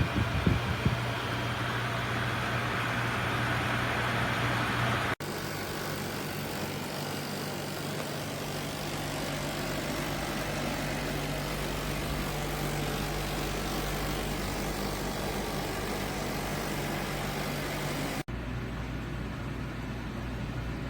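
SereneLife 9000 BTU portable air conditioner running: a steady rush of air with a low hum under it. The sound cuts off abruptly twice, and the hum's pitch is different after each cut.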